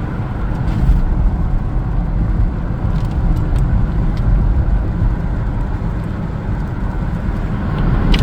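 Steady road noise inside a moving car: a low rumble of engine and tyres with a hiss above it, and a few faint ticks.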